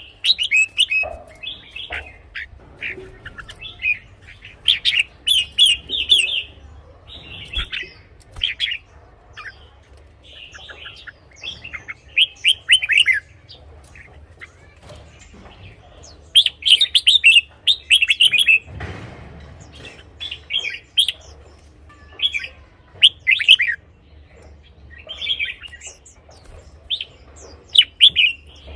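Red-whiskered bulbul singing: short, bright whistled phrases repeated every second or so with short pauses between them. A brief rustling noise comes about two-thirds of the way through.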